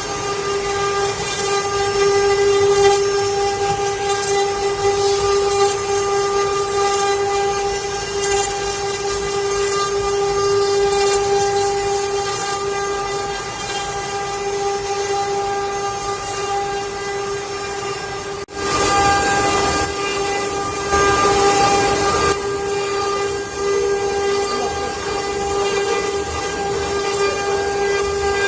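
CNC router spindle running with a steady high whine while machining wood, with rougher stretches of cutting noise about two-thirds of the way in.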